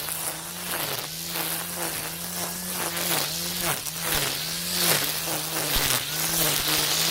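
A cordless electric brush cutter spinning nylon trimmer line through tall weeds. Its steady motor whine dips in pitch as the line slashes into the grass, about once every half second or so, and recovers between strokes.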